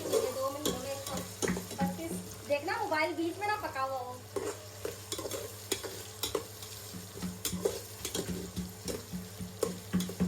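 A spoon scraping a pot as it stirs sizzling, frying food for chicken biryani, in repeated strokes.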